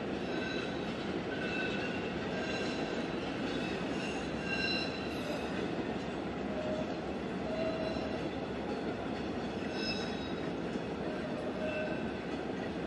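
Train rolling on the rails with a steady rumble, with short high wheel squeals that come and go every second or so.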